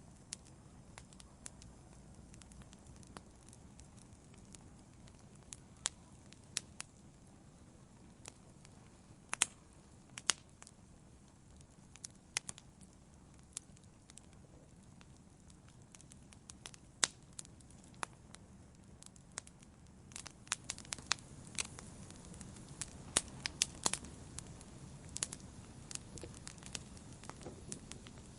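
Wood campfire burning: a low steady rumble of flames with sharp, irregular crackles and pops, which come more often in the last third.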